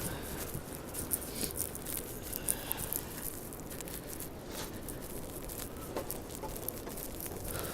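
Street ambience in a blizzard: a steady low rumble with many small, rapid pattering ticks throughout.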